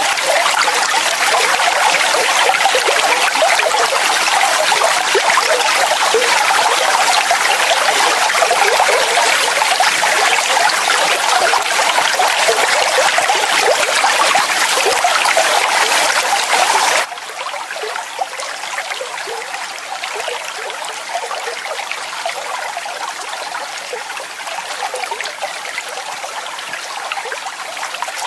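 Steady rushing of falling water. About 17 seconds in it cuts abruptly to a quieter, thinner flow that then runs on evenly.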